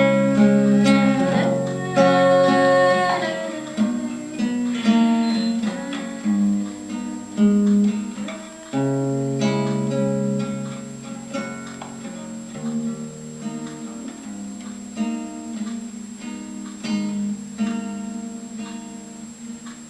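Acoustic guitar playing plucked notes and chords, growing gradually quieter toward the end as the song closes.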